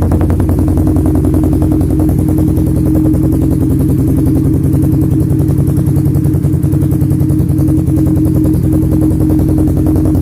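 Suzuki Satria FU fuel-injected single-cylinder motorcycle engine running steadily through an R9 aftermarket exhaust, with a fast, even exhaust pulse and no revving.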